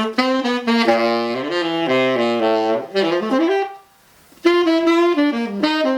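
Tenor saxophone with a metal Otto Link Super Tone Master mouthpiece and a soft vintage La Voz medium reed, playing a jazz phrase of moving notes. There is a short break about four seconds in, then another phrase.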